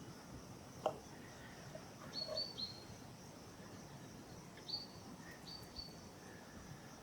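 Birds chirping in the woods: short high chirps, each ending with a drop in pitch, in two clusters, over a faint steady high-pitched hum. A single sharp click comes just under a second in.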